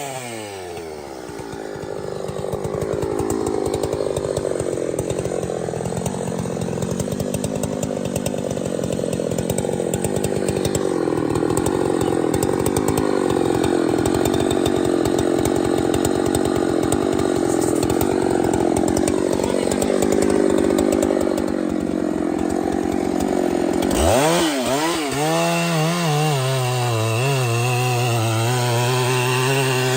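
Chainsaw cutting through wood under load for most of the time, its engine pitch pulled down and rough. Near the end the saw comes free of the cut and revs up to a high, steady whine.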